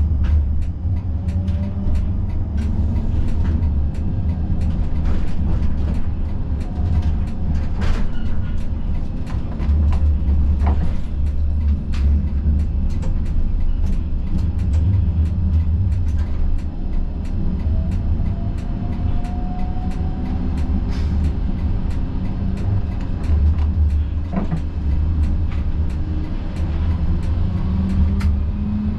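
Siemens Combino tram running on its rails: a steady low rumble with frequent clicks and knocks from the wheels on the track. A motor whine rises a couple of times as it picks up speed.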